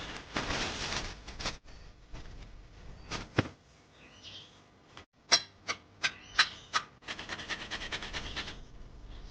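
A series of sharp knocks, five of them close together in about a second and a half past the middle, between stretches of dense crackling rustle. The sound cuts off abruptly twice.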